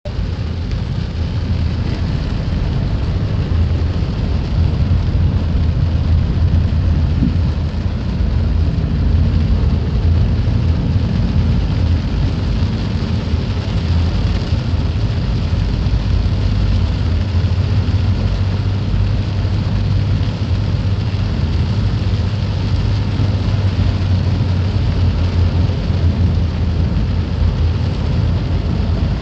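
Steady rain noise with a continuous deep rumble underneath, unbroken throughout.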